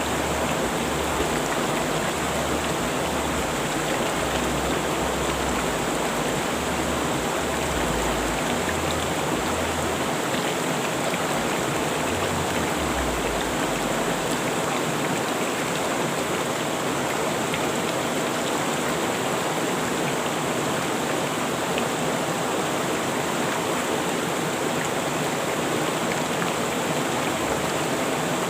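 Rushing river water flowing steadily: a constant, even rush with no breaks.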